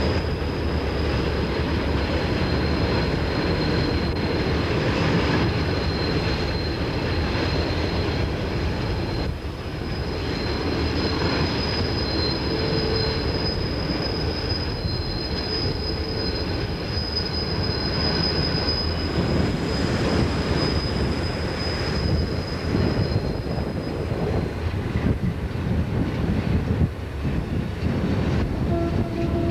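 Train rolling past on steel rails with a steady rumble of wheels. A thin, high wheel squeal rings over it and fades out about three-quarters of the way through.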